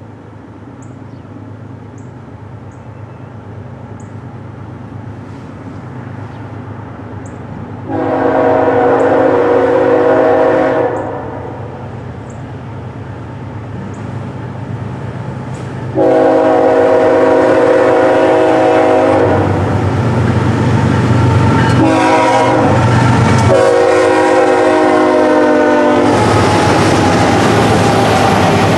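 Diesel freight locomotive, a BNSF GE ES44C4, rumbling louder as it approaches. Its multi-chime horn sounds long, long, short, long, the standard grade-crossing signal. The lead engine then passes close by with a loud steady roar of engine and rolling wheels.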